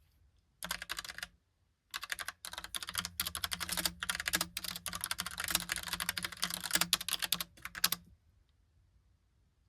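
Logitech POP Keys mechanical keyboard with typewriter-style round keycaps being typed on. A short burst of keystrokes comes near the start, then a quick, steady run of clicks for about six seconds that stops well before the end.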